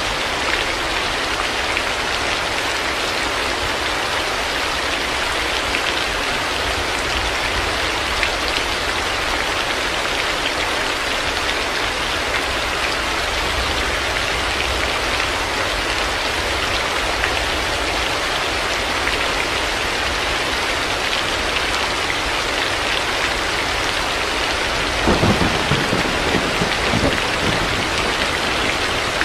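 Heavy rain falling steadily. Near the end a low roll of thunder rises under it.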